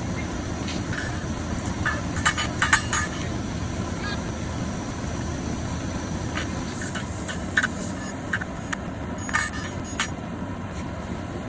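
A forge running with a steady low rushing noise, with scattered light metallic clinks and taps, the busiest few close together about two seconds in.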